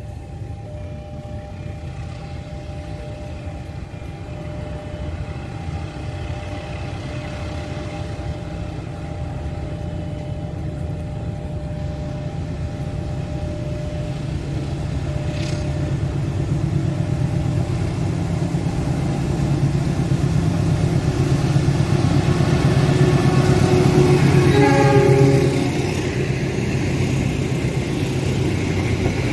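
Diesel-hauled passenger train approaching, its low rumble building steadily louder. A short horn blast sounds about 25 seconds in, at the loudest point, then the coaches run past on the rails.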